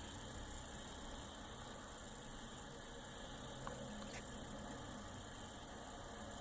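Faint steady electrical mains hum, with a couple of faint ticks a few seconds in.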